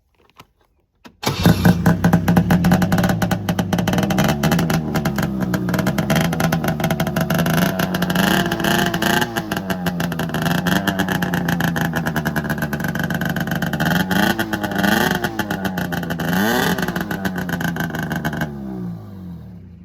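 Ski-Doo Touring SLE snowmobile's Rotax 503 two-stroke twin running through a homemade can muffler built from a 2.5-inch Black Widow Neighbor Hater muffler. It begins about a second in and idles, with the throttle blipped several times so the revs rise and fall. Near the end it winds down and stops.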